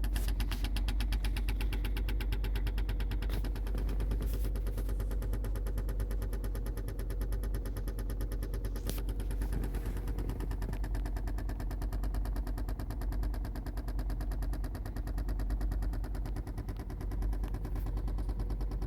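1986 Porsche 928S V8 engine idling steadily shortly after a cold start: a fast, even run of firing pulses, with a few sharp clicks in between.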